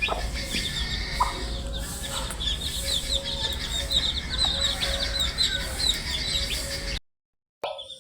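A brood of baby chicks peeping continuously, many short high falling chirps overlapping, over a steady low hum. The sound cuts out completely for about half a second near the end, then resumes.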